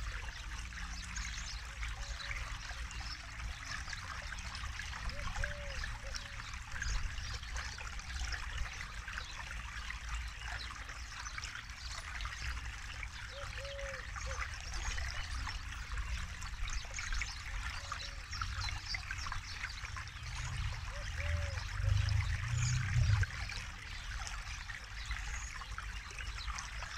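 Forest river flowing and trickling over rocks, a steady rush of water dotted with small splashes, over a low rumble. The rumble swells briefly about twenty seconds in.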